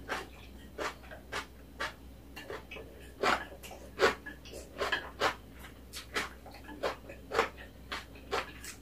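Close-miked eating sounds as napa cabbage kimchi and rice are chewed: short wet lip smacks and chews, two or three a second at an irregular pace.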